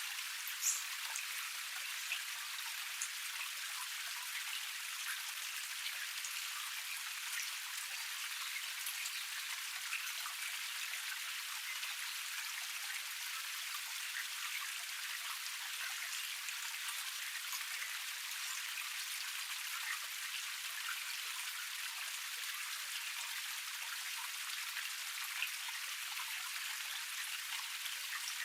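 Water of a small forest waterfall cascade spilling and splashing steadily: an even hiss of falling water with a few faint splash ticks.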